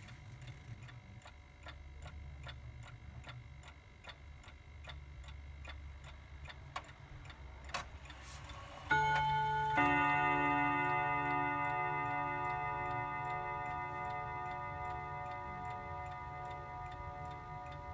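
Mantel clock ticking steadily, about two ticks a second, then about nine seconds in sounding its two-note 'bim bam' chime, two strikes close together whose ringing slowly fades while the ticking goes on.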